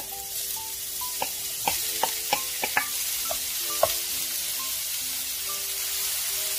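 Sliced shiitake mushrooms sizzling in hot oil in a nonstick wok, with a wooden spoon clacking against the pan several times in the first four seconds as they are stirred.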